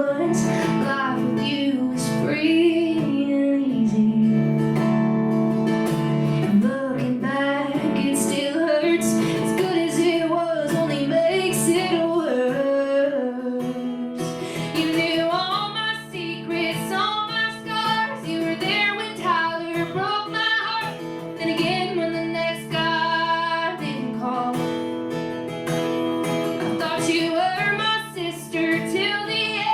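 A woman singing a slow song live, accompanied by strummed acoustic guitar.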